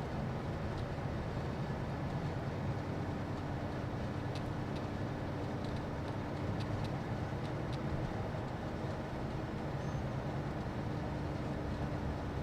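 Steady engine and road noise of a moving bus, with a faint steady hum and a few light ticks about halfway through.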